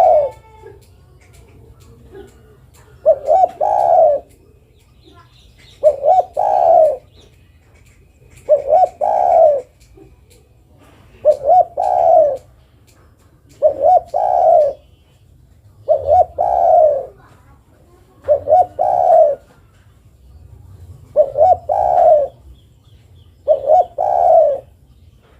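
Female spotted dove (derkuku) calling a male: a repeated cooing phrase of two or three low notes, about every two and a half seconds. Faint chirps of small birds can be heard between the phrases.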